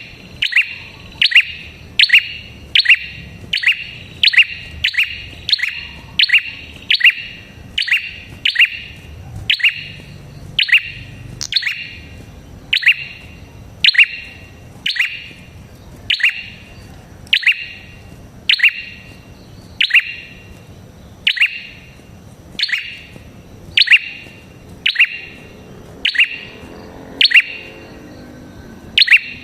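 Red-headed prenjak calling: a long, unbroken series of sharp chirps, each sliding quickly down in pitch, at about one to two a second.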